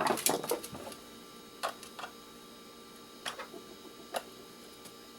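Metal clicks and scrapes of a knife tip working a triangle-head screw: a quick run of them at the start, then single sharp clicks every second or so.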